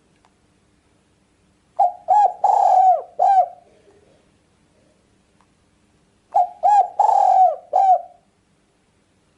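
Spotted dove cooing in two phrases, about four and a half seconds apart. Each phrase is a couple of short coos, then a longer drawn-out coo, then a short closing coo.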